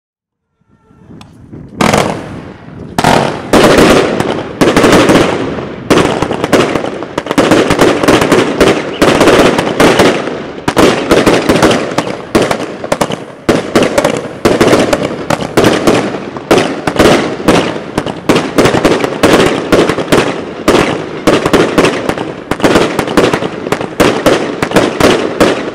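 Royal Fireworks Thunder Flower multi-shot firework going off. A short hiss comes first, then an unbroken, uneven barrage of sharp bangs and cracks, several a second, over a constant fizzing.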